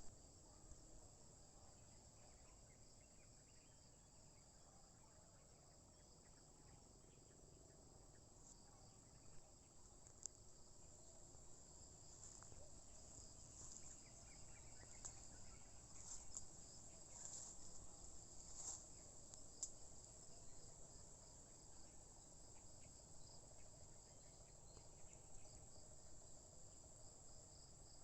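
Faint, steady high-pitched insect chorus, a continuous shrill trill such as crickets make, with a few soft ticks in the middle.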